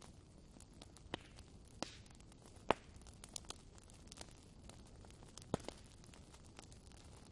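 Wood fire burning in a fireplace, crackling: a soft steady hiss with scattered sharp pops, the loudest about two and a half and five and a half seconds in.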